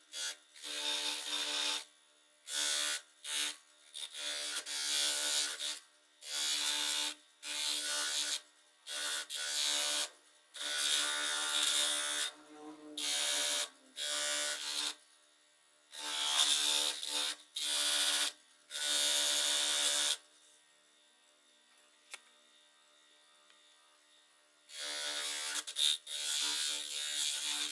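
Small high-speed electric motor of a hand power tool switched on and off in repeated short runs, each a steady buzz lasting up to about two seconds, with a pause of about four seconds in the second half.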